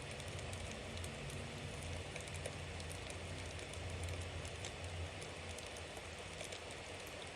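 Bonfire burning: a steady rushing hiss with a low rumble, and small crackles and pops scattered irregularly throughout.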